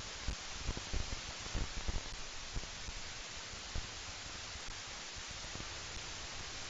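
Steady outdoor hiss, with a few soft low thumps during the first four seconds.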